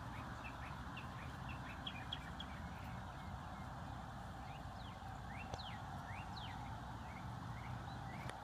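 Small birds chirping: quick high chirps several a second at first, then a few longer sweeping calls midway. Under them runs a steady low hum.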